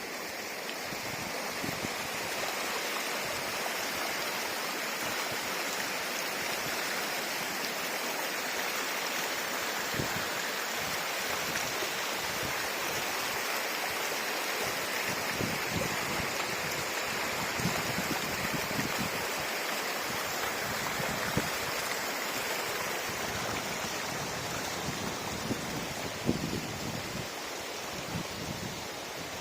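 River water flowing steadily over a rocky bed, an even rushing that swells a little in the first couple of seconds, with occasional low bumps.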